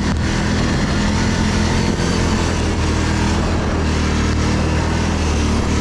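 ATV engine running at fairly steady revs while the machine drives along.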